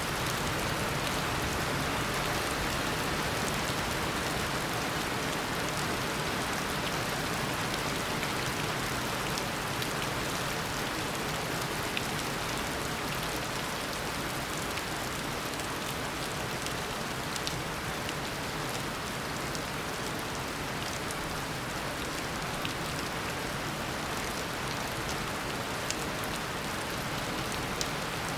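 Heavy tropical rain falling steadily in a dense, even hiss, with scattered sharper drop ticks and a few louder drops.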